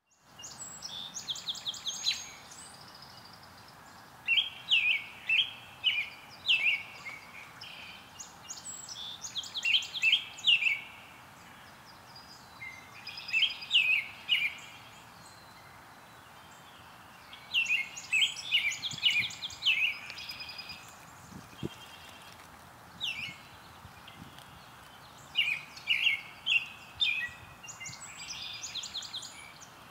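A songbird singing, repeating a short phrase of quick, sharp chirped notes every few seconds, over a steady faint outdoor hiss.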